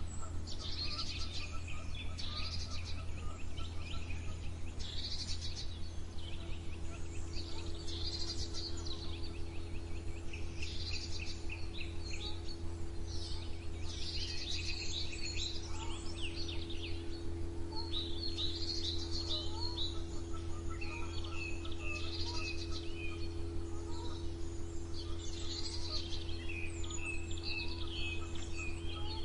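Songbirds singing, short trilled phrases repeating every second or two, over a steady low hum.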